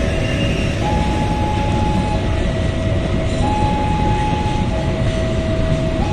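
Passenger train coaches rumbling past over the rails in heavy rain. Over it a level-crossing warning alarm sounds, switching back and forth between a higher and a lower steady tone about every second and a half.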